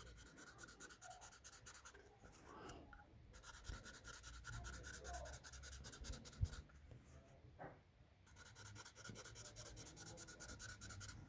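Faint scratching of a felt-tip pen drawing on a cardboard toilet roll, in three stretches of quick strokes with short pauses between.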